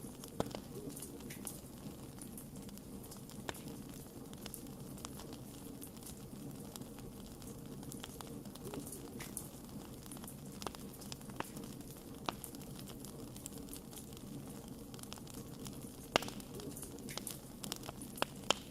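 Wood fire burning with a steady low rumble and frequent irregular crackles and pops. The sharpest pops come about half a second in and again near the end.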